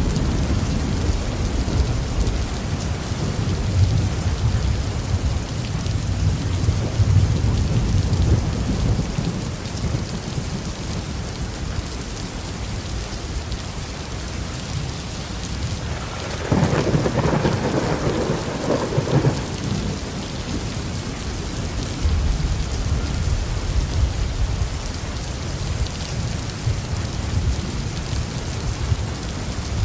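Heavy rain falling steadily, with deep thunder rumbling through the first several seconds and again near the end, and a sharper, brighter thunderclap with rumble a little past halfway that lasts about three seconds.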